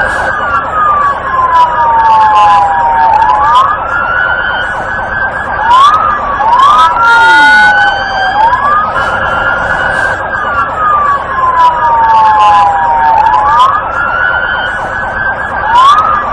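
Police car siren in wail mode: the tone climbs quickly, then slides slowly back down, repeating about every two and a half to three seconds.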